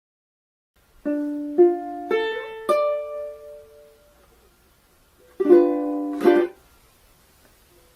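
Ukulele music: four single plucked notes about half a second apart, each left to ring. Then two strummed chords.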